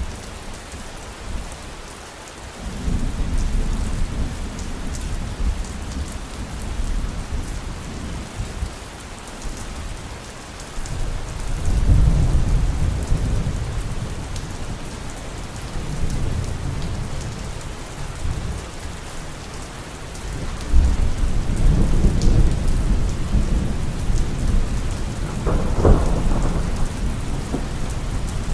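Steady heavy rain with thunder rolling in three times. The last roll builds to a sharper crack near the end.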